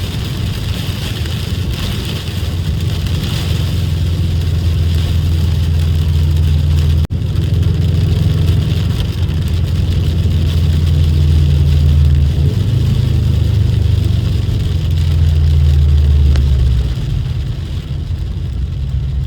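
Subaru WRX's turbocharged flat-four engine droning under way at steady speed, heard with road noise, its pitch shifting a couple of times as the revs change, with a brief sharp break about seven seconds in.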